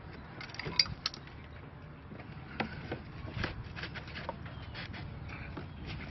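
Scattered light knocks and clicks of wood and metal as an engine on wooden skids is handled and tipped; the sharpest click comes about a second in.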